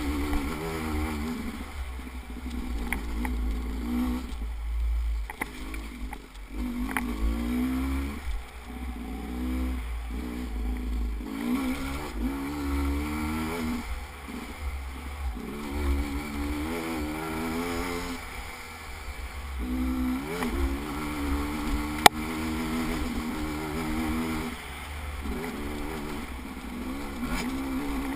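A vehicle engine running, its pitch rising and falling again and again as the throttle changes, over a steady low rumble. A single sharp knock about three-quarters of the way through.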